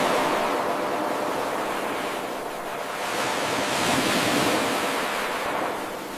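Ocean waves washing in, a steady rush of surf that swells, eases off about two and a half seconds in, builds again around four seconds and falls away near the end.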